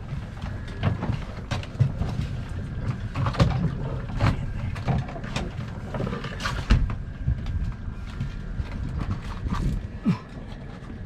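Irregular knocks and clatter of a crab pot and crabs being handled on a boat deck, over a steady low boat-engine rumble.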